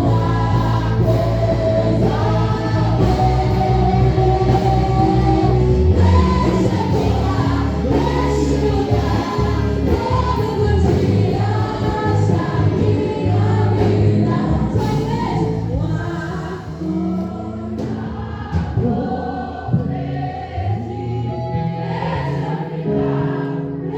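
Portuguese gospel worship song sung by a group of voices over instrumental accompaniment. The low accompaniment drops away about two-thirds of the way through, leaving the voices lighter.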